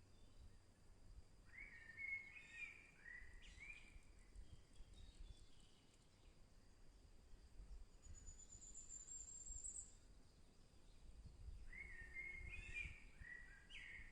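Faint forest birdsong: a bird sings the same short phrase of quick descending notes twice, about ten seconds apart, and a thin, very high trill of about two seconds comes midway between. A low rumble lies under it throughout.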